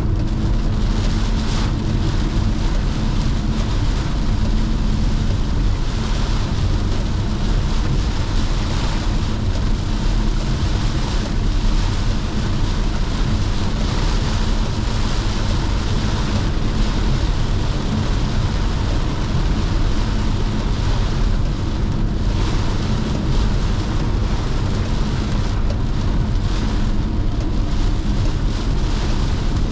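A car driving on a wet road in heavy rain: a steady low engine and road drone under a rain and tyre hiss that swells and eases every few seconds.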